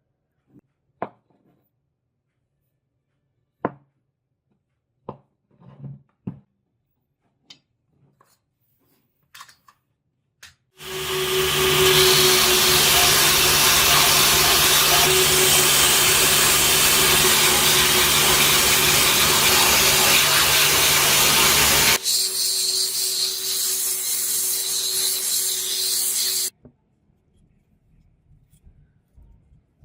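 Small clicks and knocks of handling, then a power tool starts about a third of the way in and runs with a steady hum and a loud hiss of working material for about eleven seconds. It carries on more lightly for a few seconds and then cuts off suddenly.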